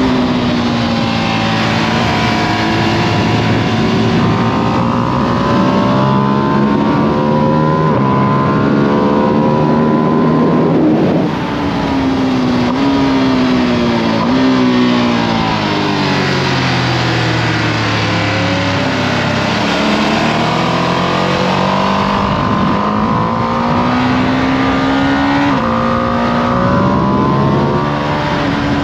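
2025 Ducati Panigale V2S V-twin on its stock exhaust, pulled hard up through the gears: the engine note climbs, drops at each upshift, then falls away under braking and downshifts before the next run of upshifts, over steady wind rush.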